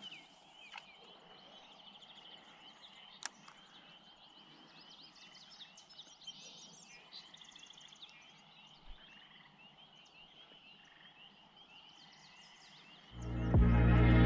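Quiet outdoor background of high, repeated chirping and trilling animal calls, with a few faint clicks. Music fades in near the end.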